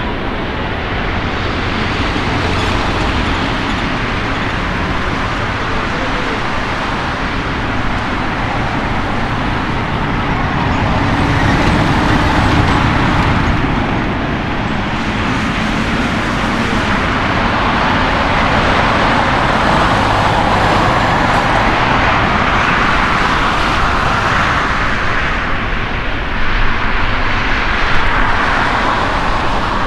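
Airbus A340-300's four CFM56 jet engines at takeoff thrust: a loud, continuous jet roar that swells about twelve seconds in and grows louder again in the second half.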